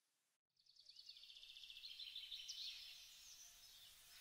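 Faint birdsong: several small birds chirping, with a rapid trill among the calls, coming in about half a second in.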